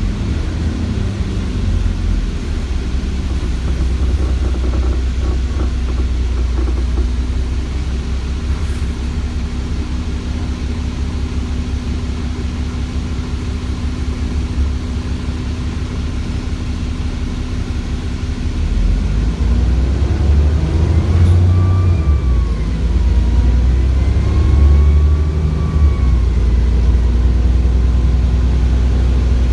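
Cummins ISBe 6.7-litre diesel engine of an ADL Enviro400 double-decker bus running steadily. About two-thirds of the way through it pulls harder and gets louder, and a high turbo whine rises, dips, rises again and fades.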